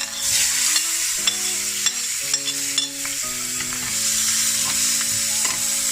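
Diced onion, carrot and red pepper going into hot oil in a frying pan and sizzling at once, loud and steady, while being stir-fried, with a utensil tapping and scraping against the pan now and then.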